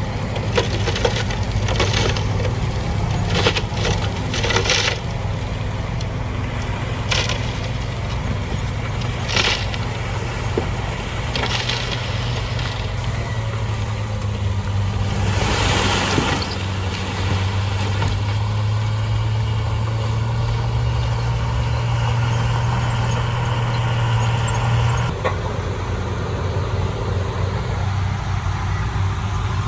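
Heavy diesel earthmoving machine running steadily, with scattered clanks and knocks of rock and metal in the first dozen seconds and a burst of hissing about fifteen seconds in. The engine note drops about 25 seconds in.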